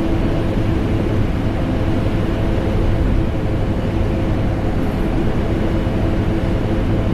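Vacuum cleaner and air conditioner running together without change: a deep, steady rushing noise with a few faint, steady humming tones in it.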